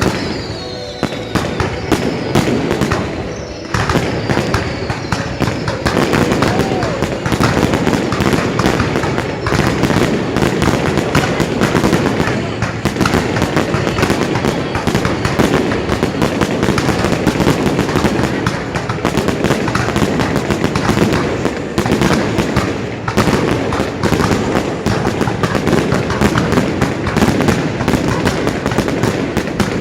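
Fireworks display going off without pause: dense, rapid bangs and crackling from bursting shells, with a couple of falling whistles in the first few seconds.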